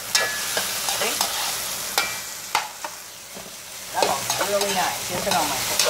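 Chicken strips and chopped red onion sizzling in a metal wok, stirred with a utensil that clicks and scrapes against the pan several times.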